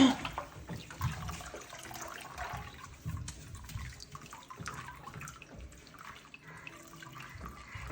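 Bathwater sloshing and splashing irregularly as a small monkey moves about in the bath.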